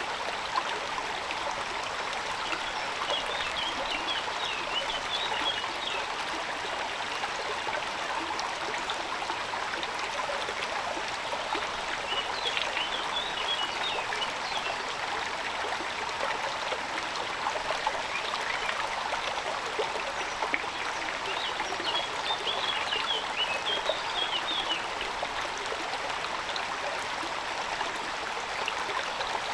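Steady rush of water, heavy rain or running water, as an even hiss throughout. Three short bursts of high chirping come through it, about 3, 12 and 21 seconds in.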